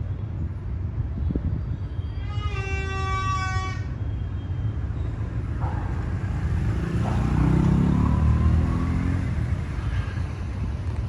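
D13E diesel-electric locomotive running with a steady low rumble, sounding one horn blast of about a second and a half a little over two seconds in. The rumble then grows louder for a few seconds as the locomotive draws nearer.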